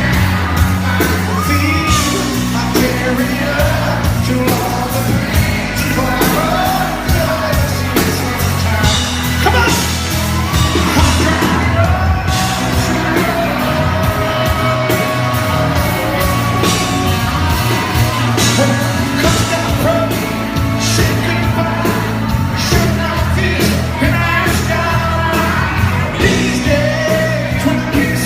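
Live country band performing a song, with a male lead singer and full band amplified through a large hall's sound system; some crowd yells mixed in.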